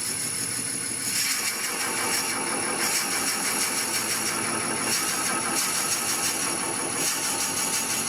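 Wood lathe running while a 25 mm Forstner bit bores through the centre of the spinning wooden workpiece. The cutting noise grows about a second in and then holds steady, over a steady high whine.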